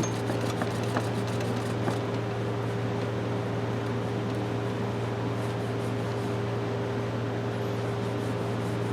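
Steady electric motor hum with a constant low drone and a fainter steady higher tone, plus a few light clicks in the first couple of seconds.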